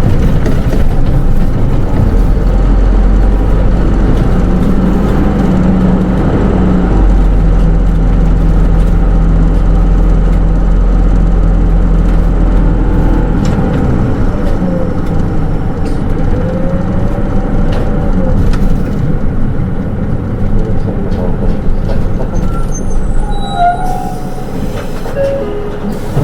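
Running noise heard inside a Hino Rainbow II SDG-KR290J1 city bus with automatic transmission: the diesel engine drones steadily under way, then eases off about halfway through. Road and body noise continue, with a few short higher squeals near the end.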